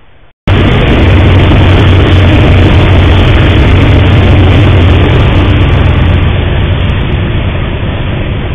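Freight train passing close by, picked up by a trail camera's microphone: a loud, steady rumble and rattle of the rolling cars over a low hum, starting abruptly about half a second in and slowly fading over the last few seconds.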